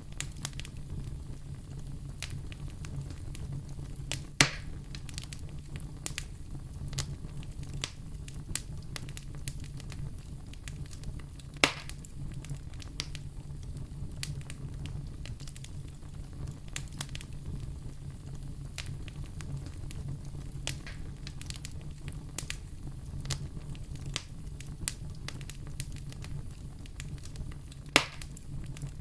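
Wood fire crackling in a fireplace: many small crackles over a steady low rumble, with three loud pops, about four seconds in, near the middle and near the end.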